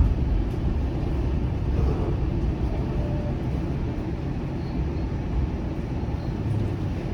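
Steady low rumble of a Bombardier Flexity Outlook low-floor streetcar running, heard from inside the passenger cabin.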